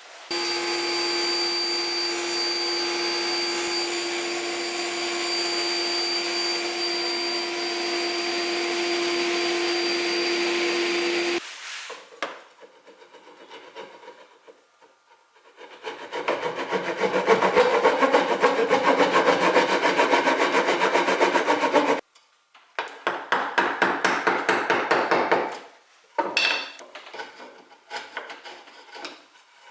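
Woodworking tools on oak chair parts. A tool with a motor runs steadily with a fixed hum for about eleven seconds. After a pause, a tool works the wood in fast rasping strokes for about six seconds, then in shorter bursts.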